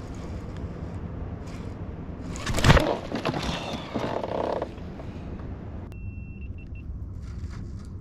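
A loud knock about a third of the way in over a low rumble. Near the end comes a high electronic tone, then a few quick beeps at the same pitch: a GoPro's overheating warning.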